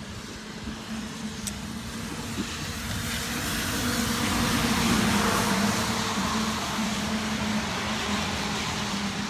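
A car passing by: a rushing hiss that swells to a peak about halfway through and then fades, over a low steady hum.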